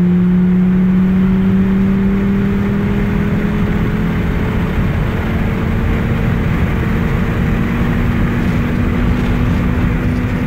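Turbocharged Volvo wagon's five-cylinder engine pulling hard under full throttle, its pitch rising slowly and steadily as the revs climb toward the redline, over loud road and wind noise inside the cabin. The run is making low, erratic boost, which the owner suspects comes from a turbo control valve fault.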